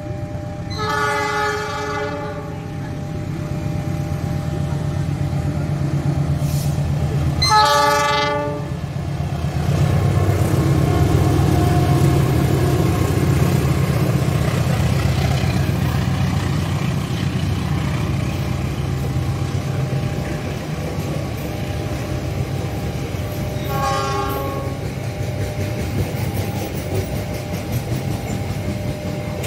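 Diesel locomotive of a passenger train sounding its horn three times: about a second in, again about eight seconds in, and once more near 24 s. Between the blasts comes the steady rumble of the train running past at speed.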